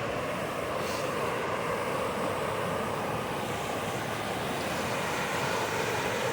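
Steady rushing of a mountain stream's water, an even, unbroken noise with no rhythm.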